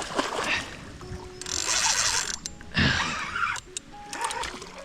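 Fishing reel being wound in while a gar is landed, with mechanical clicking. Two brief rushing noises come about one and a half and three seconds in.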